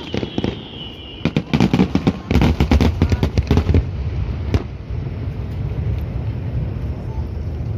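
Fireworks display: a whistle falling slightly in pitch for about the first second, then a dense run of rapid crackling pops lasting about two and a half seconds, a single sharp bang near the middle, and a low rumble after it.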